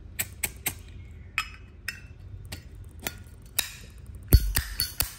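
A solid-brass Zippo lighter being handled: a run of sharp metallic clicks and clinks from its lid and case, with a heavier knock about four seconds in.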